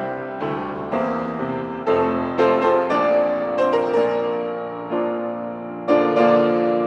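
Solo piano playing a slow hymn, striking chords that fade between one and the next.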